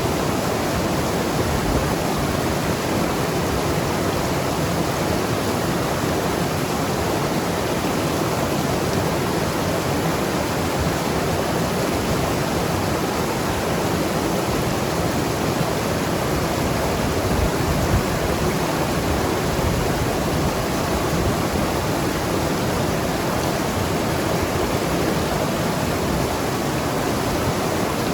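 Mountain river rushing and gurgling over rocks: a steady, full wash of moving water.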